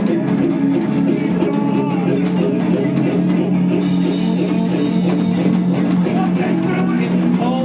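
Live rock band playing an instrumental passage: electric guitar and bass holding a steady low note over a drum kit, with a cymbal crash ringing about four seconds in.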